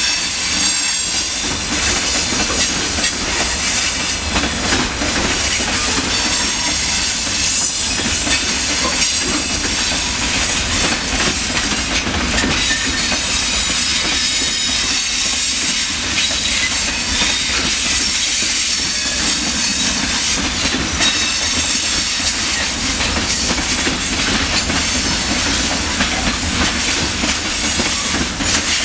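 Freight train of open gondola wagons rolling past, the wheels clattering steadily over the rails with a loud high rushing noise.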